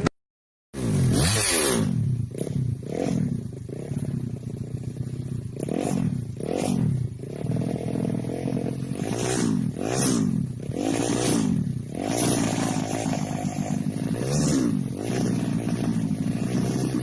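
Drag-racing motorcycle engine revved again and again in short throttle blips, its pitch rising and falling with each one, settling to a steadier run near the end.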